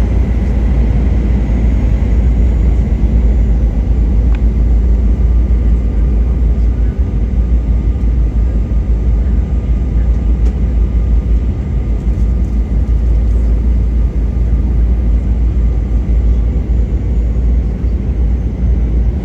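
Steady cabin noise inside an American Airlines Boeing 737 in flight: a deep, even rumble of engines and airflow, with a faint steady whine above it.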